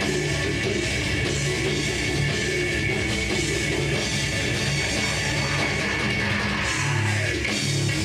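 A heavy-metal band playing live, with electric guitar and drum kit in a dense, steady passage.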